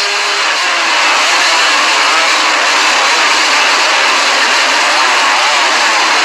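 A pack of small two-stroke motocross bikes running hard at high revs, a dense high-pitched engine din with pitch rising and falling as riders rev and shift.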